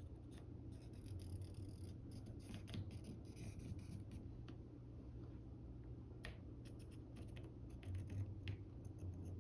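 Sketching on paper: light, irregular scratching strokes of a drawing tool as an outline is traced, over a faint steady low hum.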